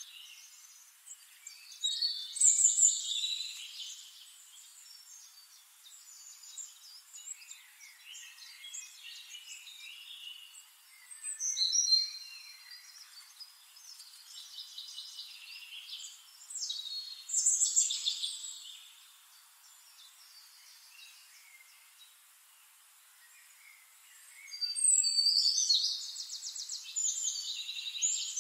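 Birds chirping and calling in short bouts, with a quick, evenly repeated rattling trill near the end.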